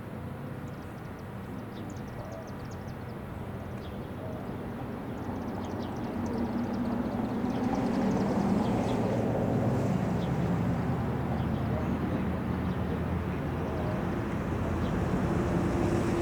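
Engine rumble of a passing vehicle with a steady hum in it, growing louder over the second half.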